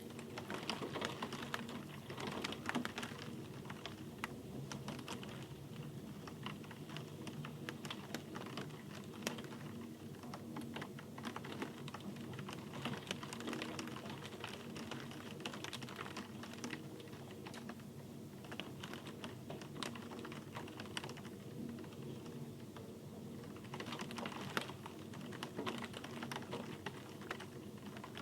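Steady rain with dense, irregular ticking of individual drops.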